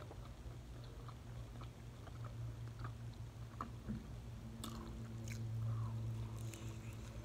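A person chewing and biting into a homemade taco close to the microphone, with small wet mouth clicks and a couple of sharper bite sounds in the second half, over a steady low hum.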